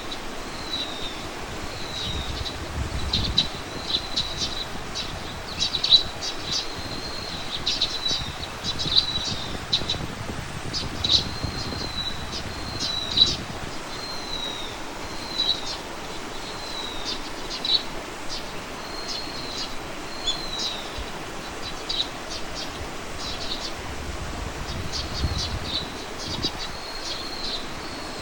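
Songbird singing outdoors: short whistled notes and sharp chips repeated steadily, with a low rumble that comes and goes underneath.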